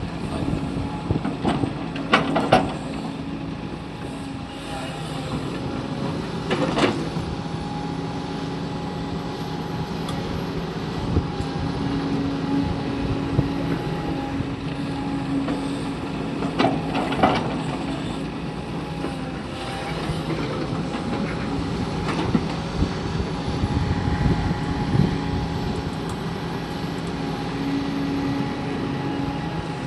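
Hydraulic excavator's diesel engine running steadily, with a few sharp knocks, about two seconds in, near seven seconds, and twice around seventeen seconds.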